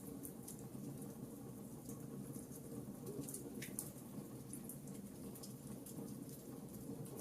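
Fireplace fire crackling: scattered sharp crackles and pops over a steady low rumble of the flames, with one stronger pop about three and a half seconds in.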